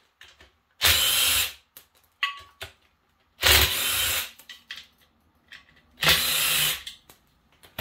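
Cordless power drill/driver running in three short bursts, each under a second and a couple of seconds apart, as when spinning fasteners out of an engine.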